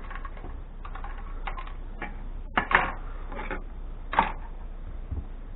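Light clicks and knocks of electronic scrap parts being handled and set down, with a louder clatter about two and a half seconds in and another knock about a second and a half later.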